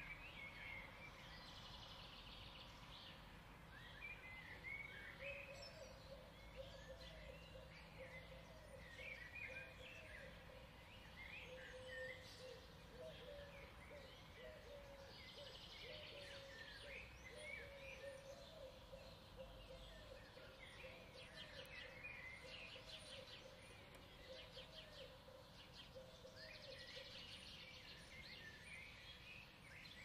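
Faint birdsong: several small birds chirping and trilling over one another, with a lower wavering call running beneath them through the middle of the stretch.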